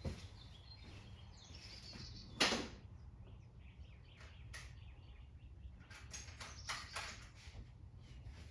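Rummaging through parts for washers: a loud clatter about two and a half seconds in, then scattered light clicks and knocks, over a steady low hum.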